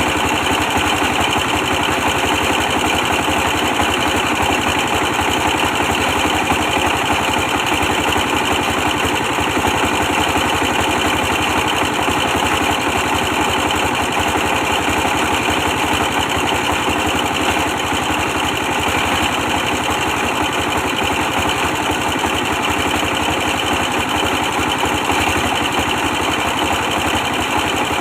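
A 24 hp diesel engine running steadily, powering a brick press machine, with a fast, even firing beat that does not change.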